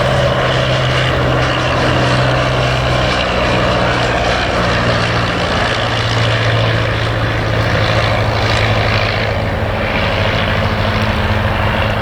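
Piston-engined propeller aircraft running steadily, its engine note dipping slightly in pitch about three seconds in and rising again a few seconds later.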